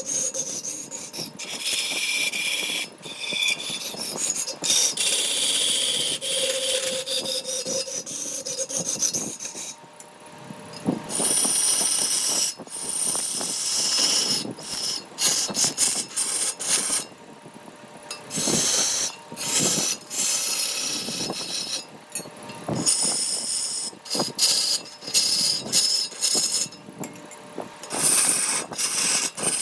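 Abrasive scraping on wood in repeated spells, stopping and starting every second or so.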